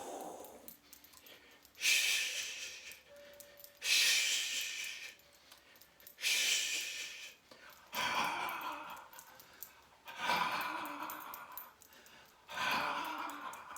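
Qigong healing sounds breathed out in time with the shaking: six long breathy exhalations about two seconds apart. The first three are a high hissing sound and the next three a lower, more open breathy sound, each healing sound done three times.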